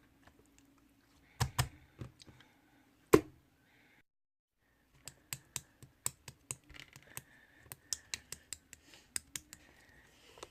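Irregular sharp clicks and taps: a few loud ones in the first three seconds, a brief dead silence about four seconds in, then a quick, dense run of small clicks.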